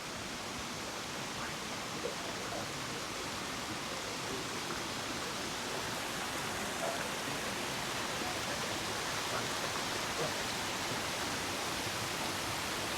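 Steady rush of water from a creek waterfall, an even hiss with a few faint ticks, growing slightly louder.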